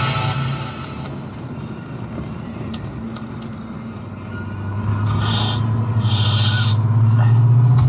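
Corvette V8 in third gear at low revs: its low hum fades as the car slows off the throttle for a bend, then swells from about five seconds in as the engine pulls again from around 1,500 rpm.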